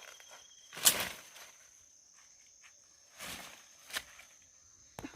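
Insects trilling steadily in the background, one of them pulsing and stopping near the start. A sharp knock about a second in is the loudest sound, with a few brief rustling noises later.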